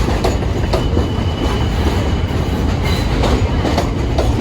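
New York City subway train running through the station with a steady rumble, its wheels clacking irregularly over the rail joints.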